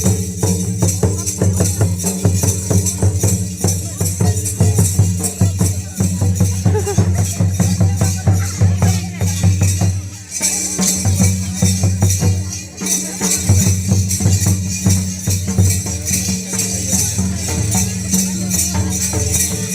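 Ho traditional dance music: drums beating a fast, dense rhythm with jingling percussion over it, dipping briefly about ten seconds in.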